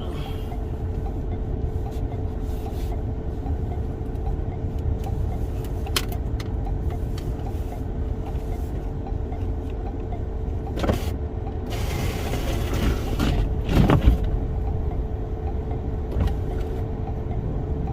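Steady low road and engine rumble heard from inside a Toyota Sienna minivan's cabin as it drives, with a faint steady hum over it. A few short clicks, and a louder rush of noise rising about twelve seconds in and peaking about two seconds later.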